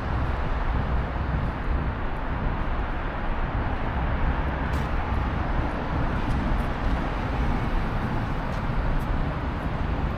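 Steady city traffic noise: a dense wash of vehicles and road noise, heaviest in the low end, with no single vehicle standing out.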